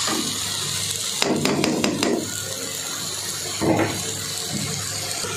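Chicken and vegetable filling sizzling in a hot wok with a steady hiss, with a slotted spoon clicking and scraping against the pan a few times between one and two seconds in.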